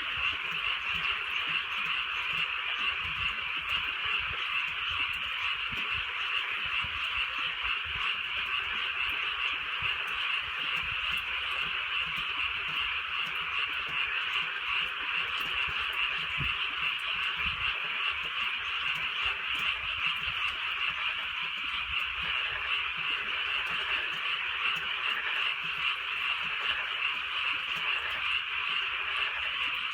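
Dense, steady chorus of many frogs calling together at night, with a faint patter of light drizzle and scattered soft low thuds.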